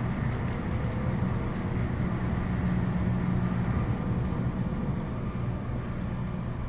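Steady low mechanical drone from a cruise ship's engines and machinery, with a constant deep hum under a wash of rushing noise.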